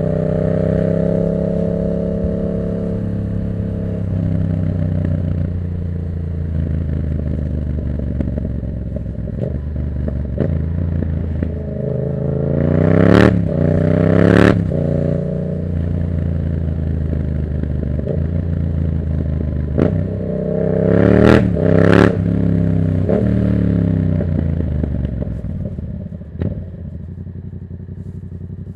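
Yamaha MT-07's parallel-twin engine through an open Black Widow exhaust with no dB killer, ridden through the gears. It revs up hard twice, about halfway through and again two-thirds through. Each run peaks in sharp cracks and falls back as the revs drop, then settles to a lower, steadier note near the end.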